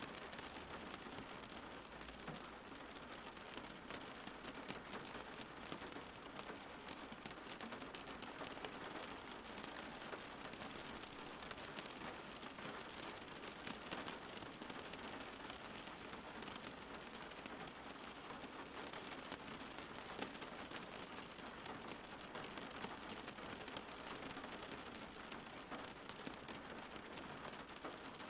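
Steady rain falling, with fine scattered drop ticks in an even hiss.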